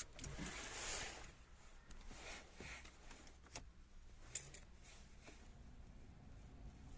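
Faint handling rustles and a few sharp clicks, then near the end a faint hum rising in pitch as the freshly lubricated heater blower motor of a VW Polo 9N3 starts to spin up.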